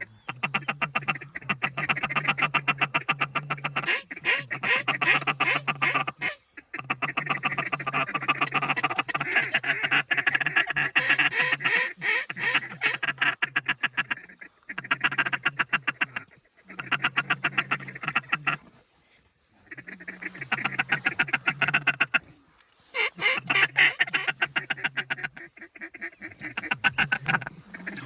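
Duck calling: long runs of rapid, chattering quacks lasting a few seconds each, broken by short pauses, the kind of feeding chatter used to work ducks in toward decoys.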